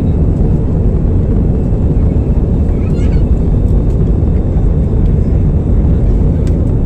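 Airliner passenger-cabin noise: a loud, steady, low rumble of the engines and airflow. A faint short high squeak about three seconds in.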